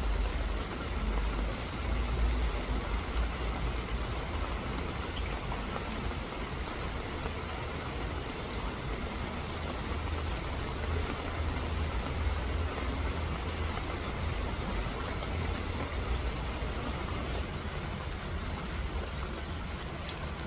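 Steady rain falling and pattering on surfaces, with a steady low rumble underneath.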